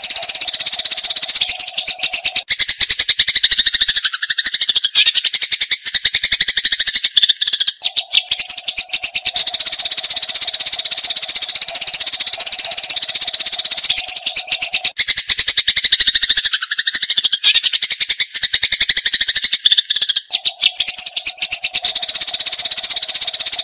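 Eurasian tree sparrows' rapid, unbroken chattering, the agitated calls of sparrows fighting. The chatter is fast and rattling, with a lower sweeping phrase that comes twice.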